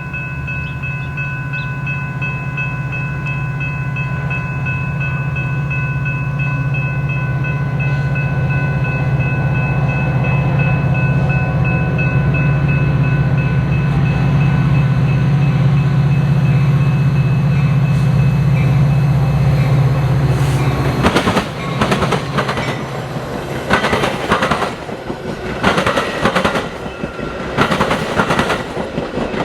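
A diesel-hauled freight train passing: the locomotive engines give a steady low drone that grows louder. About twenty seconds in, the drone drops away and the wheels of the passing cars clatter irregularly over the track.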